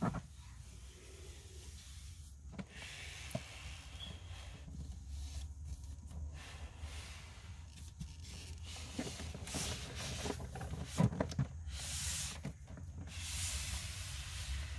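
Hands handling cardboard packaging: irregular rubbing and scraping with a few light knocks and clicks, over a steady low hum.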